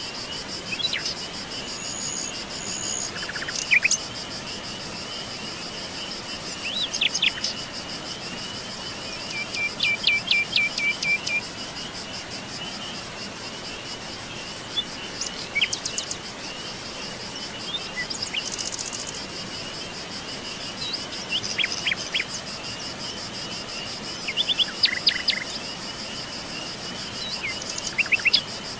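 Forest birds calling and singing in short, scattered phrases, among them a quick trill of repeated notes about ten seconds in. Under them runs a continuous high insect chirring.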